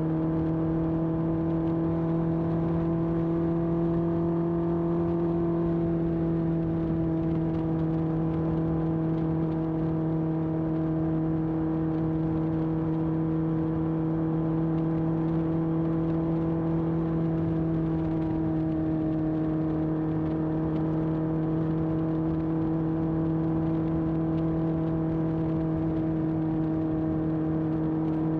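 1981 Honda CB750F's air-cooled inline-four running through a period Yoshimura exhaust at a steady cruise. Its pitch rises slightly over the first few seconds and then holds even.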